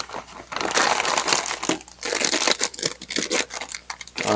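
Plastic product packaging crinkling and rustling irregularly as it is handled.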